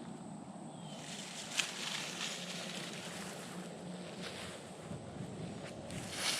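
Rustling and crunching in dry leaf litter and undergrowth, with sharper crunches about a second and a half in and again near the end.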